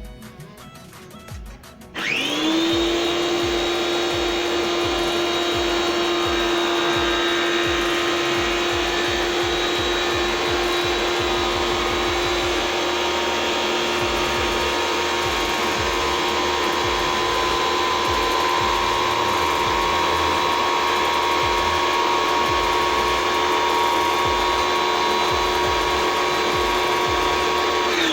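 Tecna electric pressure washer switching on abruptly about two seconds in and then running steadily with a held motor whine, spraying a detergent mix onto a car through its soap-bottle attachment.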